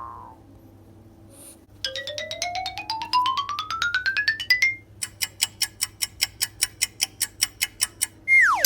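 Cartoon-style comedy sound effects: a quick run of mallet-like notes climbing steadily in pitch, then a fast, even series of identical short ringing notes like an alarm or clock, then a falling whistle-like glide near the end.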